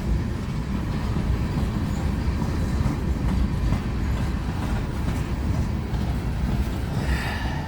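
Freight train rolling past: a steady low rumble of railcars on the rails.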